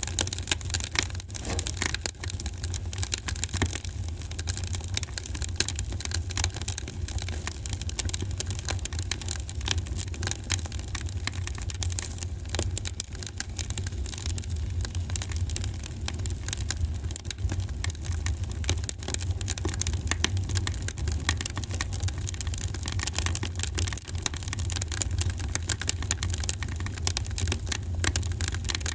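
Fireplace fire crackling: dense, irregular pops and snaps over a steady low rumble of the flames.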